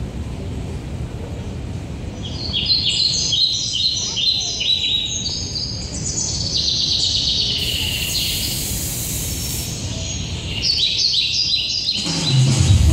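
Birds chirping in runs of quick, repeated high notes, with a pause and a second run near the end. There is a brief hiss in the middle and a steady low rumble underneath.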